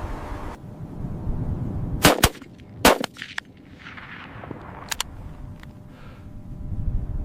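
A few sharp cracks or knocks over a steady low rumble: two close together about two seconds in, a louder one just under a second later, and fainter clicks around five seconds in.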